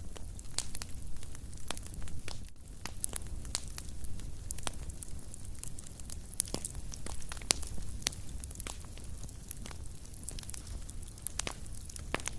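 Wood fire in a fireplace crackling, with frequent sharp irregular pops and snaps over a low steady rumble of the flames.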